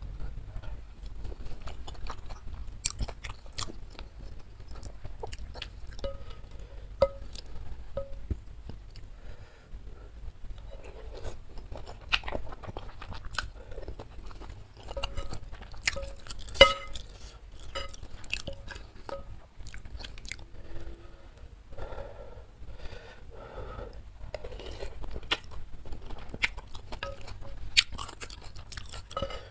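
Close-miked chewing and lip-smacking of instant noodles and chicken-filled tapioca meatballs (bakso aci) in spicy broth. The smacks come in runs of about two a second, with scattered sharp clicks.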